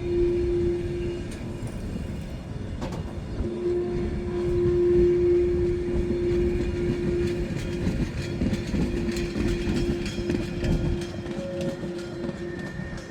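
A heritage train running past with its wheels rumbling and clattering, while its whistle holds one long steady note. The whistle breaks off about a second in, sounds again for several seconds, then goes on more weakly.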